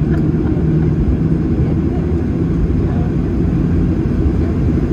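Cabin noise inside a Boeing 737-800 taxiing after landing: a low, steady rumble with a faint hum from its CFM56-7B engines at idle.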